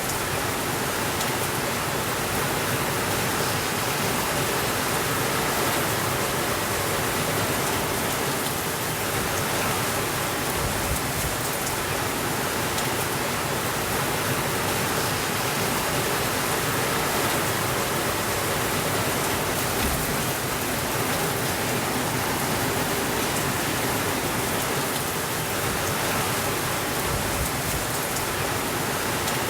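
Steady rainfall, an even hiss of many drops that holds at one level throughout.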